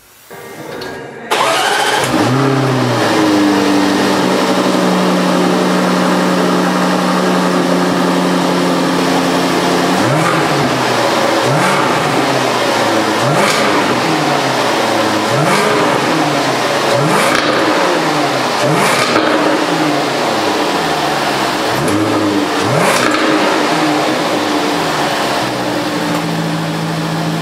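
Jaguar F-Type R's 5.0-litre supercharged V8 starting about a second in with a flare of revs, then settling to a steady idle. From about ten seconds in it is blipped repeatedly, a dozen or so rises and falls in pitch with several sharp cracks from the exhaust, before it drops back to idle near the end.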